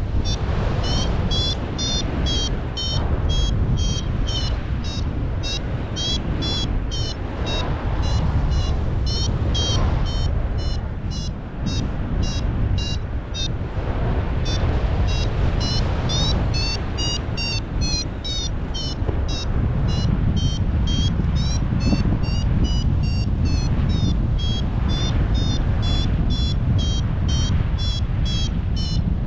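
Paragliding variometer beeping in a quick train of short tones, a few a second, the pitch drifting up and down with the climb rate: the climb tone of a glider rising in lift. Strong wind buffets the microphone underneath.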